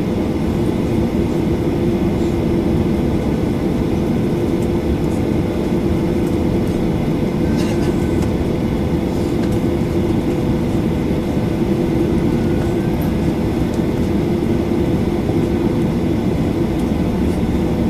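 Steady interior rumble of a Boeing 737-800 cabin heard from a window seat, a low even roar with a constant hum of engines and air system, before takeoff.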